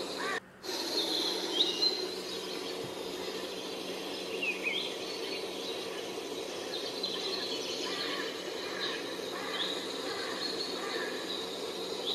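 Birds chirping, short scattered calls, over a steady background hum.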